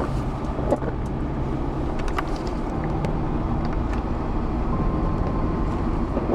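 Car running with a steady low engine and road hum, with a few faint clicks.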